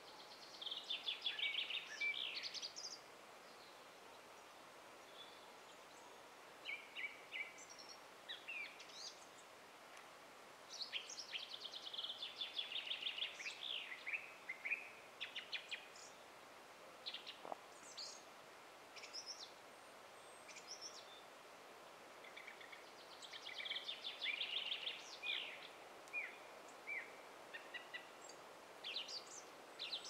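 Songbirds singing: three bursts of rapid trilled song a few seconds each, near the start, in the middle and near the end, with scattered short chirps between them over a faint steady outdoor hiss.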